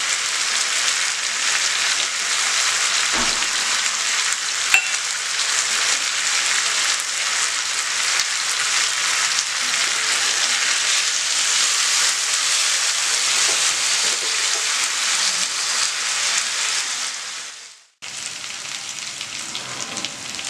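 Quail pieces sizzling steadily in hot oil in a non-stick pan during the final pepper-fry stage, with a couple of small clicks in the first few seconds. A few seconds before the end the sizzle fades out, and a quieter sizzle follows.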